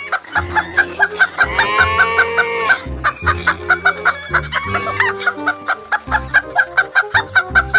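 Domestic hen clucking in quick repeated calls, with one longer drawn-out cackle about a second and a half in, over background music.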